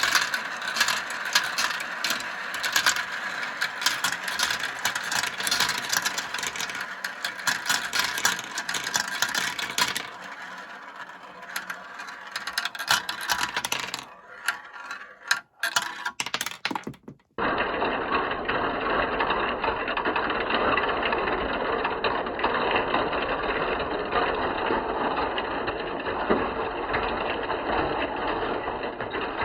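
Marbles rolling and clattering down plastic marble-run slopes: a dense run of fast clicks and rattling. After about ten seconds it thins to scattered clicks with short lulls. About seventeen seconds in it changes abruptly to a steadier, duller rolling rattle.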